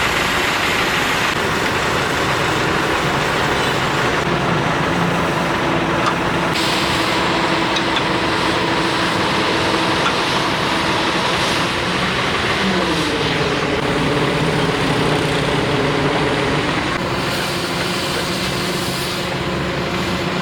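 Excavator's diesel engine running steadily, speeding up a little past halfway through and settling back a few seconds later.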